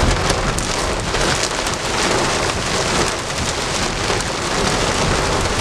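Heavy downpour drumming steadily on a car's roof and windshield, heard from inside the car.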